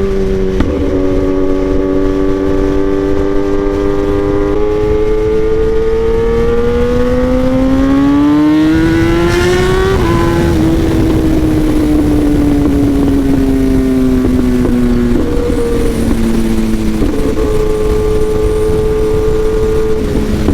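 Kawasaki ZX-10R inline-four through an SC Project exhaust, ridden on the road: the engine climbs in pitch for about five seconds under acceleration, drops sharply about halfway through, then winds down as the bike slows, with two quick steps up in pitch near the end before holding steady.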